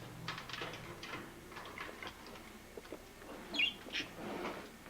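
Pet birds in a cage: faint scratchy rustling and fluttering, then two short high chirps, the first falling in pitch, about three and a half and four seconds in.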